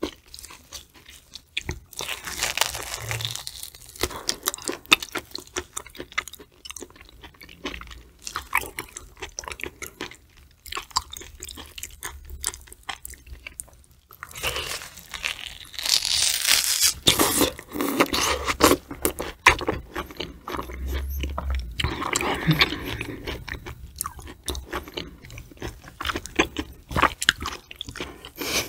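Close-miked biting and chewing of a slab of raw fatty tuna belly: many small wet clicks and smacks of the mouth, with louder, denser chewing about halfway through and again a few seconds later.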